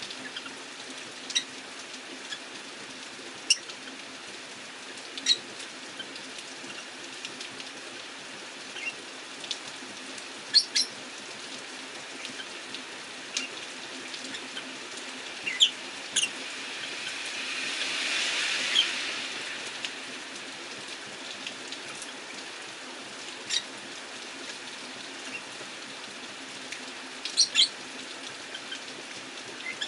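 Rosy-faced lovebirds giving short, sharp chirps every second or two over a steady hiss of rain. About eighteen seconds in, a swish of noise swells and fades: a vehicle passing on the wet street.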